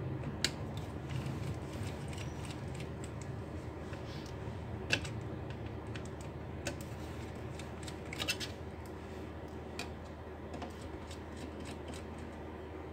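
Scattered light clicks and taps of small tools on a laptop's plastic and metal parts as its cooling fans are taken out, a few sharp clicks spread over a steady low hum.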